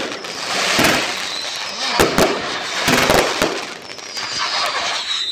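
Fireworks going off: a rapid string of sharp bangs with crackling between them, and a faint high whistle near the end.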